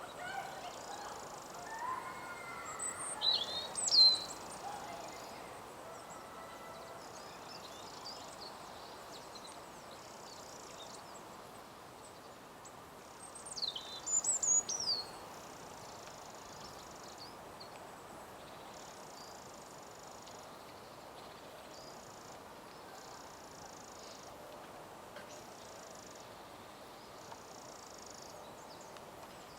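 Birds calling: two short bursts of sharp, high calls falling in pitch, one about three seconds in and one near the middle, over fainter background birdsong and a steady hiss of outdoor ambience.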